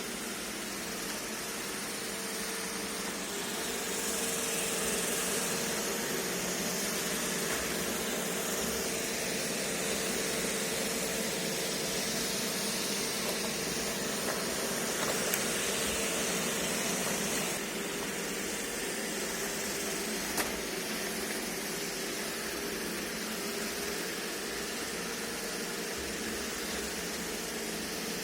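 iRobot Roomba e5 robot vacuum running: a steady motor hum with a hiss of suction. It gets somewhat louder a few seconds in and drops back a little past halfway, with a short click now and then.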